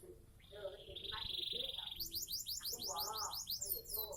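Seven-month-old domestic canary singing: a buzzy rolled trill held for over a second, then a fast run of falling whistled notes.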